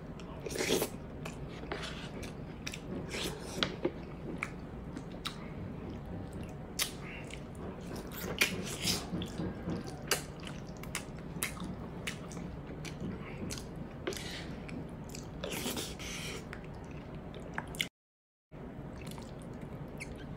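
Close-up eating sounds of a person chewing soft, tender pork hock and rice: wet chewing with sharp lip smacks and mouth clicks scattered throughout. The sound cuts out to silence for a moment near the end.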